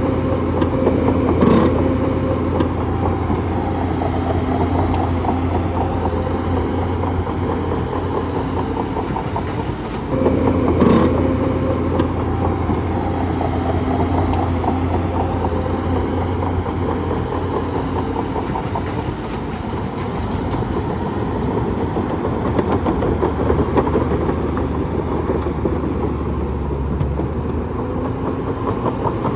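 Heavy diesel engine of a bulldozer running steadily, with a couple of sharp knocks.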